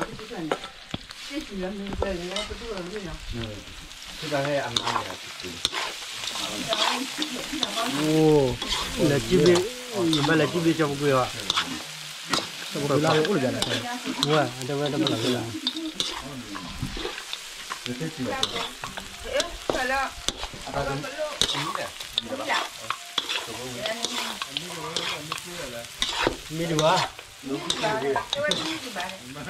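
Chunks of meat in chili paste sizzling as they fry in a steel wok, stirred with a metal spatula that scrapes and clinks against the pan again and again.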